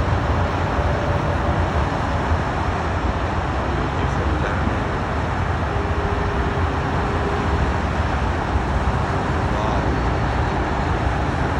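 Steady, loud engine roar with a deep rumble underneath, holding level without rising or falling.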